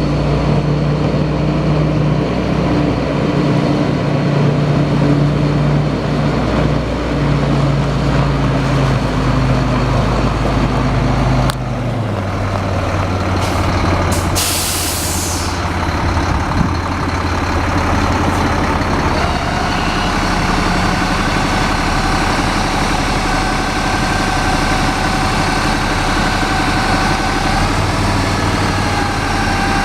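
Diesel engine of a 2005 Freightliner M2 grain truck running steadily; its engine speed drops a little over a third of the way in, and about halfway through there is a short hiss of released air.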